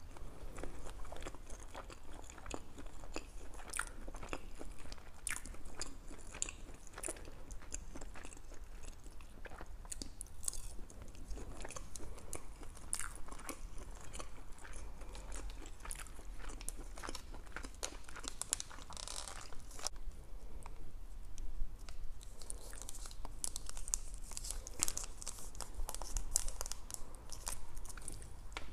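A person chewing Chinese takeout food close to a clip-on microphone: a steady run of small mouth clicks and bites, busier near the end.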